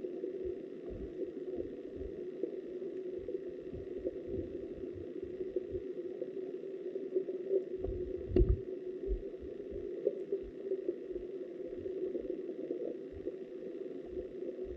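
River water flowing, heard muffled from underwater through a submerged camera housing, with irregular low thumps from the current buffeting it and one sharper knock about eight and a half seconds in.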